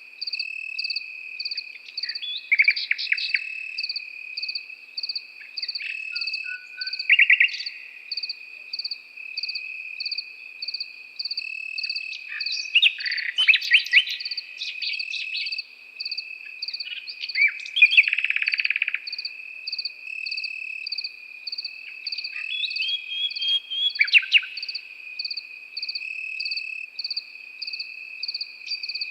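A nightingale singing in separate loud phrases of rapid notes and rattling trills, over a continuous chorus of crickets with a steady high trill and regular pulsing chirps.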